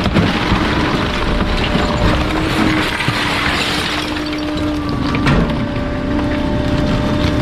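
Garbage truck compactor crushing bulky waste: continuous cracking and splintering of wood and breaking material, over the steady hum of the truck's hydraulics.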